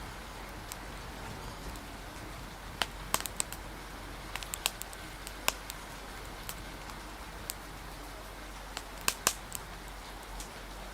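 Wood fire crackling, with irregular sharp pops in small clusters, over a steady hiss of rain and wind.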